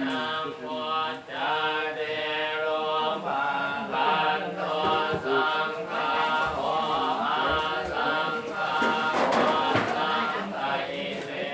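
Buddhist chanting: several voices reciting together in a steady, near-monotone chant, with short breaks between phrases.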